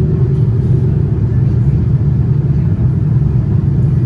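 Steady low rumble inside the cabin of a Boeing 787-9 airliner: GEnx engine and airflow noise, even throughout.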